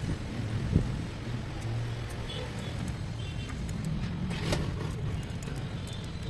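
Steady low rumble of background vehicle noise, with a sharp knock about a second in and a sharp click a little after four seconds.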